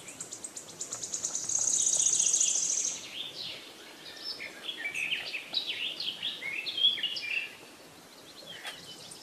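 Birds chirping and trilling: a rapid high trill for about the first three seconds, then a run of short, varied chirps that dies away near the end.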